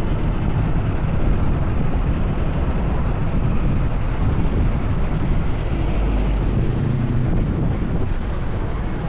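Wind rushing over the microphone of a helmet- or bike-mounted camera on a moving Honda PCX 160 scooter, with its single-cylinder engine running steadily underneath.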